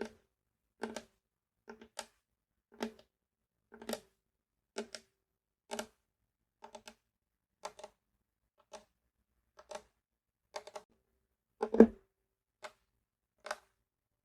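Light taps on a ukulele's wooden body, about one a second, sometimes two close together, each with a brief hollow ring. One louder knock comes near the end.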